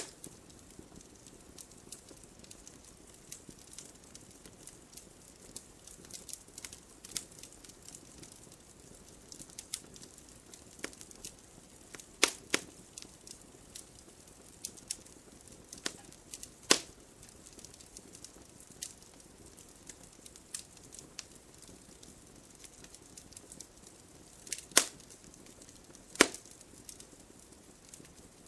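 Campfire crackling: irregular sharp pops and snaps over a soft hiss, with a few louder pops at the start, about halfway through and near the end.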